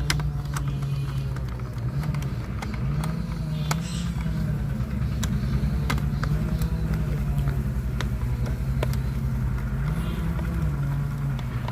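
Small electric screwdriver motor running steadily while driving screws into a plastic toy school bus, its pitch dipping and rising in steps as the load changes, with sharp clicks throughout.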